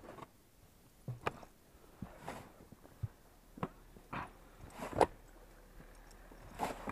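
Footsteps crunching through fresh snow, faint and uneven, a few scattered steps.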